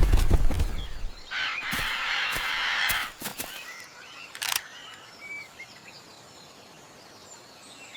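Parrot wings flapping in the first second, then a long squawk of about a second and a half, followed by a few faint bird chirps.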